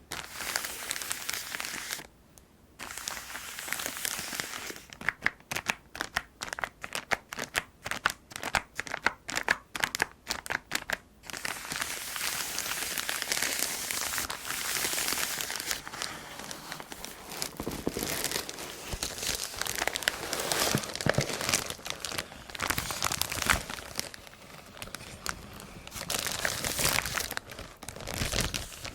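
Packaging being unwrapped by hand, crinkling and tearing. A dense run of sharp crackles runs for several seconds in the first half, followed by steady rustling.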